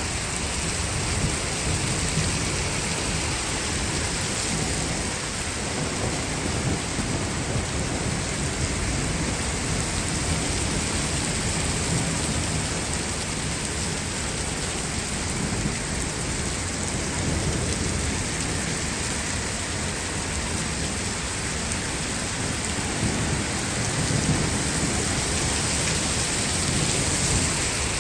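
Heavy rain pouring steadily, with low thunder rumbling underneath that swells near the end.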